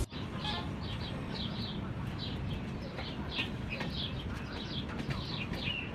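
A bird chirping over and over, short calls about two or three a second, over a steady background hum of outdoor noise.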